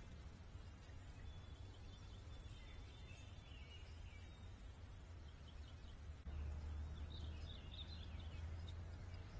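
Faint backyard songbirds chirping, with a thin high trill in the first few seconds and a cluster of chirps near the end, over a steady low rumble that grows louder about six seconds in.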